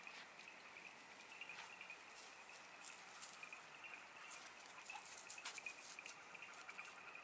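Near silence with faint, steady insect chirring and a few faint clicks.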